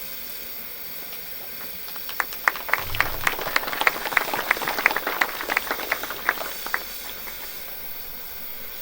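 Scattered applause from a small audience: distinct, irregular claps that start about two seconds in and die away after about five seconds.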